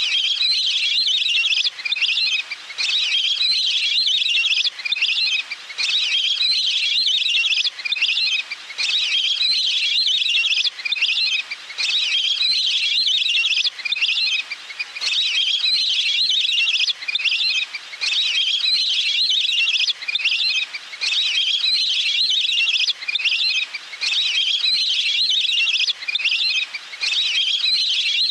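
Recorded water-bird call played on a loop as a lure: a high, chattering trill that repeats about every three seconds with brief gaps between phrases.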